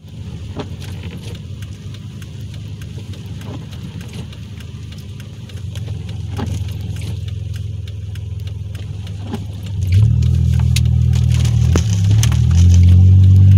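Cabin sound of a supercharged 3.8-litre V6 Impala SS under way: a low engine drone that gets louder in steps, sharply about ten seconds in and again near the end, where it starts rising in pitch as the car accelerates. Scattered light ticks sound over it.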